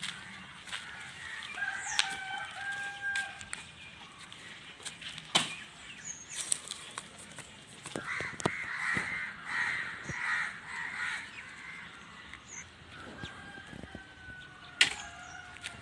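A rooster crowing several times, with a held call early on and a longer pulsing crow in the middle. Two sharp knocks stand out, the louder one near the end.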